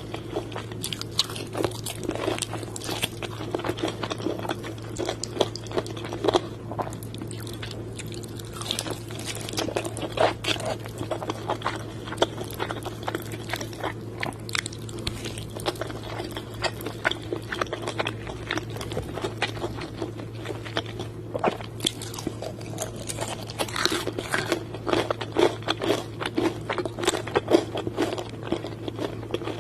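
Close-up biting and chewing of crispy KFC fried chicken, the breaded coating crunching and crackling in many short bites, over a steady low hum.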